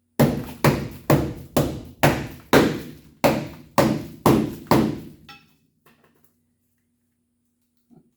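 About ten hammer blows on metal in a steady rhythm, roughly two a second, each ringing briefly. They stop about five seconds in.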